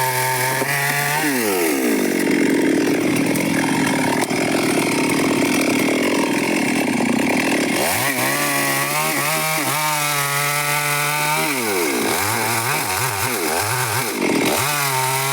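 Stihl chainsaw running at high revs, then cutting into wood for about six seconds, its engine note buried under a dense cutting noise. It then runs free again, and near the end the throttle is let off and opened several times, the pitch dropping and rising, before it runs up again.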